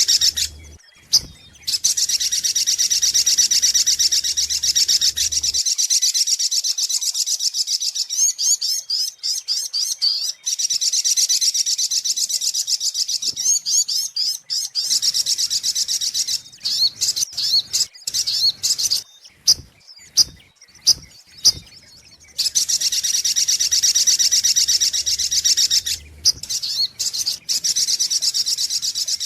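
Sunbird lure-call recording: fast, high-pitched chittering trills run almost without pause, broken around the middle by a stretch of separate sharp chips before the trilling resumes.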